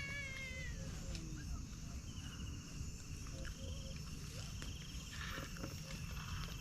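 Birds calling outdoors: a falling call right at the start, then short rapid trills about two seconds in and again near five seconds, over a steady low rumble.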